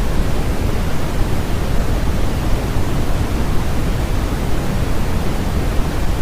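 Steady generated noise track: a constant, even hiss with no changes, heavier in the bass than in the treble.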